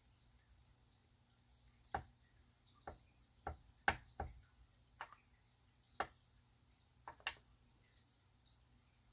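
Light, sharp taps and clicks of small painting tools against a tabletop: about ten irregular taps, starting about two seconds in and stopping about two seconds before the end.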